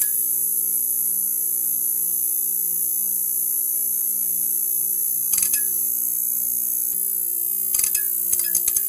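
Neon sign buzzing: a steady electrical hum under a high hiss, broken by short runs of crackling clicks about five seconds in and again near the end.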